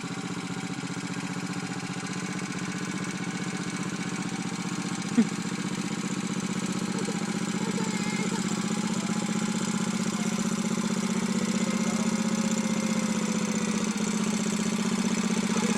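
Tractor engine running steadily at low speed, growing gradually louder, with one brief sharp click about five seconds in.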